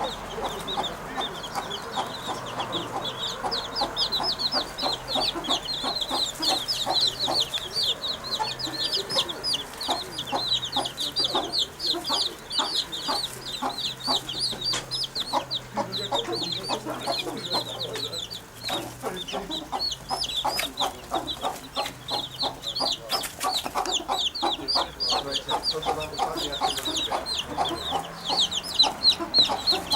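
Birds chattering: a dense, unbroken run of rapid high chirps over lower clucking calls, a sound likened to chickens clucking.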